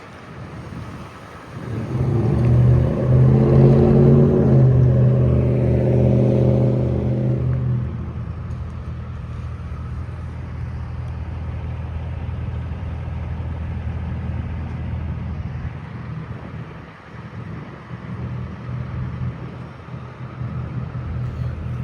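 A work truck's engine passing close by. It swells about a second and a half in and is loudest for the next six seconds or so, then settles into a steadier, quieter engine hum as the truck moves off.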